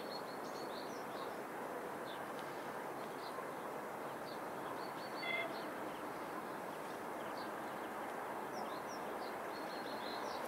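Small birds chirping in short, high calls over a steady background noise, with one louder call about five seconds in.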